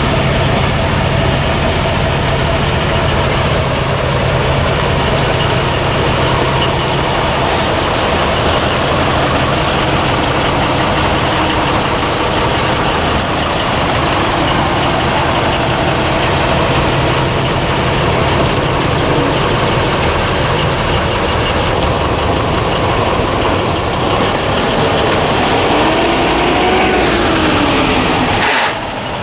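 The Faun Gotaer D4K Unicat truck's 14,120 cc, 265 PS V10 engine running steadily. Near the end a brief whine rises and falls over the engine.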